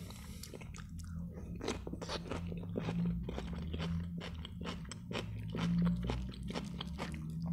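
Close-up chewing of a sliced salted pickled cucumber, with many short crisp crunches.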